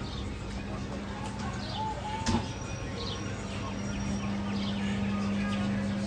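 Small birds chirping in short, high, falling calls every second or so, over a steady low hum and faint voices of people nearby. A single sharp knock about two seconds in.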